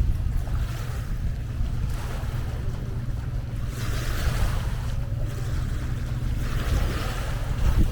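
Sea waves washing onto the shore, swelling twice, about halfway through and again near the end, over a steady low rumble of wind on the microphone.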